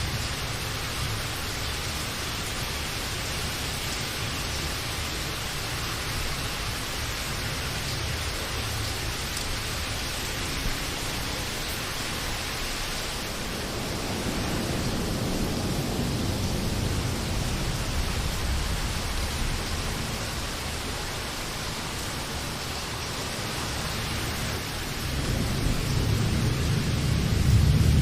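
Steady rain falling, with low rolling thunder that swells up about halfway through and again, louder, near the end.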